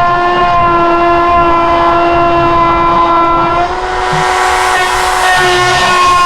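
Hand-held die grinder running with a steady high whine. From about four seconds in its bit bites into the alloy exhaust port of a cylinder head, adding a harsh grinding hiss as the pitch dips slightly under load. The bit is made for steel and clogs in the alloy.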